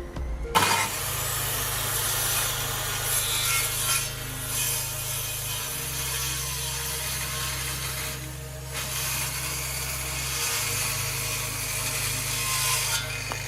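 An electric power tool running through wood. It starts sharply about half a second in, runs steadily with a brief dip near the middle, and eases off near the end.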